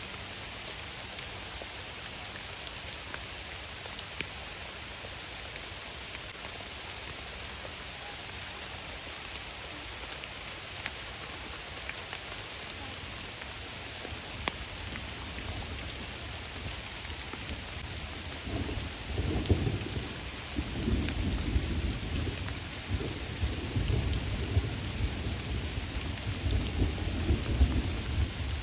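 Steady hiss of rain falling, with scattered faint drop ticks. From about two-thirds of the way through, a loud, irregular low rumbling builds up under it.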